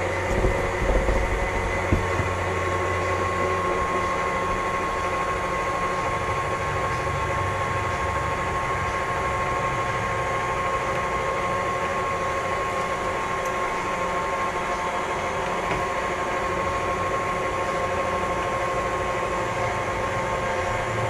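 Boat davit's winch motor running steadily with a constant whine while lifting a couch on its cable, with a few knocks in the first two seconds.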